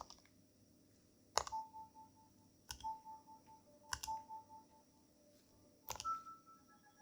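Nintendo DSi XL buttons clicking five times, each press answered by short electronic beeps from the console's speaker as a diagnostics test runs; near the end a press brings a steady higher tone.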